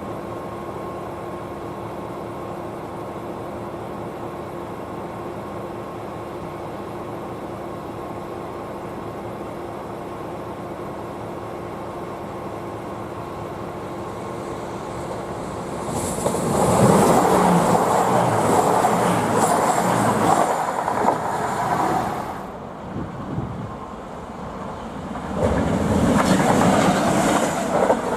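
Diesel train passing over a level crossing: a steady hum with two held tones, then a loud rush of engine and wheel noise about halfway through that eases briefly and comes loud again near the end.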